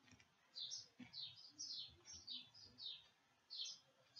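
Faint, high chirps from a small bird, repeating about two to three times a second, each a short falling note.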